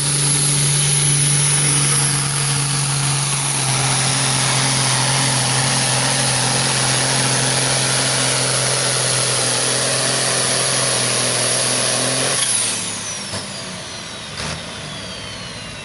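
Turbocharged diesel farm tractor engine running hard at a steady high throttle with a high turbo whine. About twelve seconds in it throttles back, the engine sound drops, and the turbo whine falls away in pitch as it spools down.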